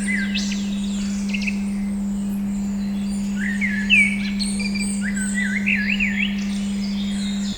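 A steady 200 Hz pure tone hums under a recording of songbirds chirping, with many quick rising and falling calls.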